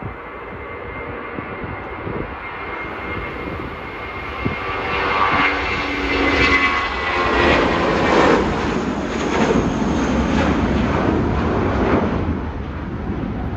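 Airliner's engines passing close by, growing steadily louder from about four seconds in and easing off near the end, with wind gusting on the microphone.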